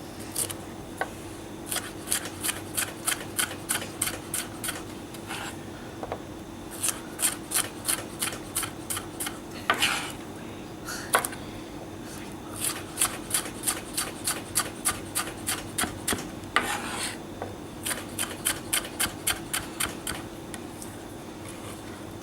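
Knife cutting vegetables into fine julienne strips on a chopping board: quick runs of even strokes, about four a second and roughly ten to a run, with pauses between runs.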